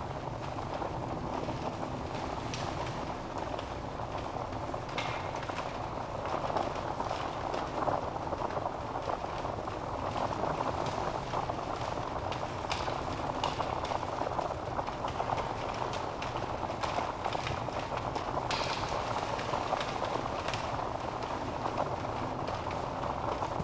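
Wood fire burning in a fireplace: a steady rushing crackle with scattered sharper pops from the logs.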